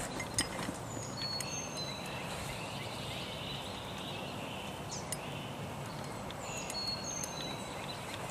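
A bird singing in woodland: two short phrases of high, thin whistled notes, about a second in and again near the end, over steady outdoor background noise.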